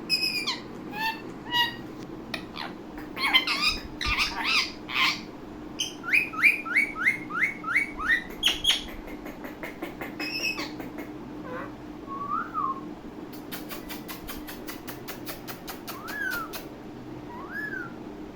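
Ringneck parakeet calling: sharp squawks and whistles, a quick run of about seven falling chirps in the middle, then a fast train of clicks near the end, over a steady low hum.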